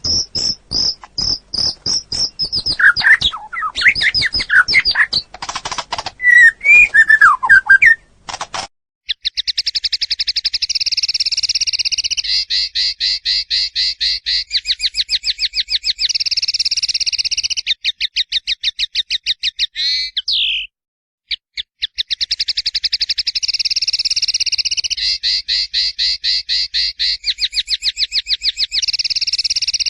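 Songbird singing a fast, loud song: quick high repeated notes, then varied phrases with sharp clicks, then from about 9 s long rapid rolling trills that pause briefly about 21 s in.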